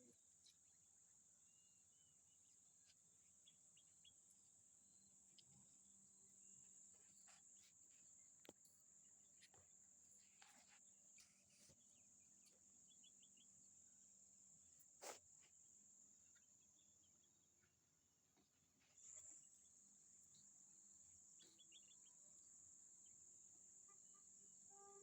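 Faint, steady high-pitched chorus of crickets, with a few faint scattered clicks.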